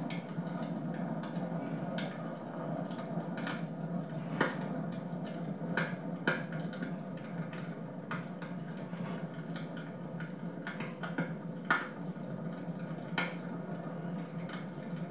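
Wood fire burning in a fireplace: a steady rush of flame under irregular sharp crackles and pops, one louder pop about three-quarters of the way through.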